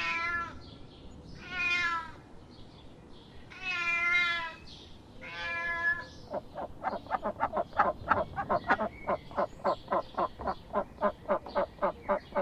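An animal calling: four drawn-out calls with a bending pitch, each about half a second long, then a fast run of short calls, about four a second.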